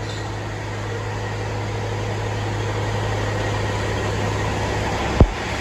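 Caterpillar C15 diesel in a Kenworth W900 truck running steadily at low revs, building slightly as the truck moves off. A single sharp knock about five seconds in.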